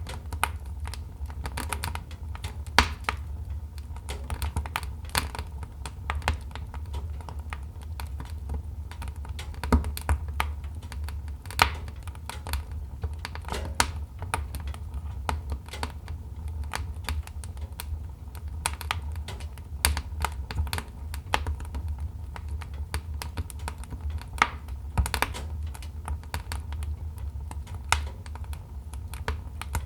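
Wood fire crackling in a fireplace: irregular sharp pops and snaps of varying loudness over a steady low rumble.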